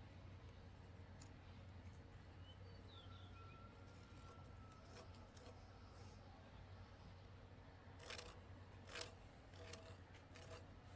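Near silence: faint background hum, with a few soft clicks about eight to ten seconds in.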